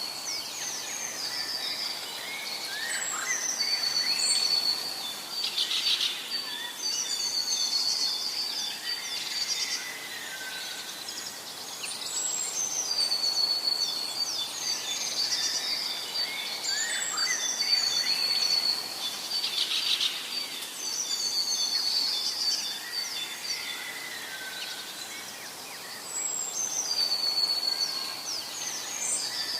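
Forest birdsong: several songbirds singing and chirping at once, high song phrases recurring every few seconds over a steady background hiss.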